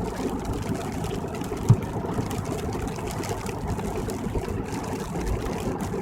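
Car driving at highway speed, heard from inside the cabin: a steady low rumble of tyre and engine noise, with one short low thump about a second and a half in.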